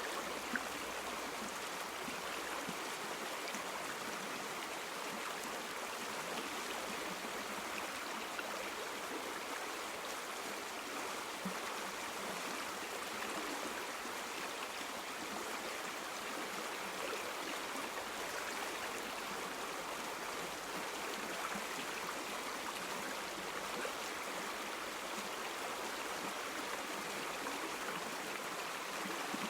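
River water flowing steadily over stones, a continuous rushing and babbling with small splashes and no changes.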